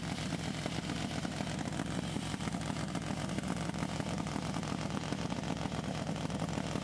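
Dirt drag bike engine running steadily, with no revving up or down.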